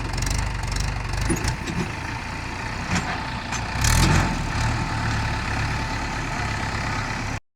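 Tractor diesel engine running steadily, with a brief louder swell about four seconds in; the sound cuts off abruptly just before the end.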